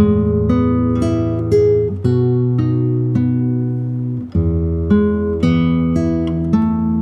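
Solo guitar playing a slow fingerpicked piece: single plucked notes about twice a second ring over held low bass notes that change every couple of seconds.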